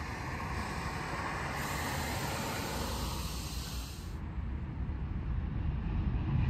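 Freight train of covered hopper cars with a steady low rumble, joined by a hiss of air from about a second and a half in that cuts off suddenly about four seconds in.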